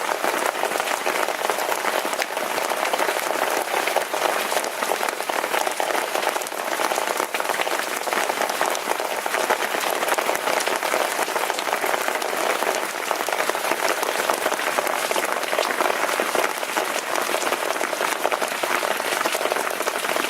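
Rain falling steadily, a dense, even patter of many drops.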